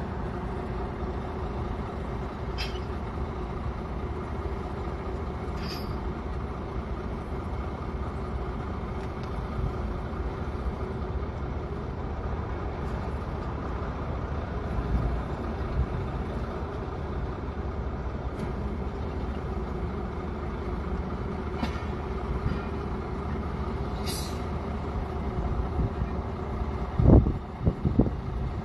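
Diesel engines of heavy equipment running steadily, with a few brief high metallic clinks or squeaks and a couple of loud low thumps near the end.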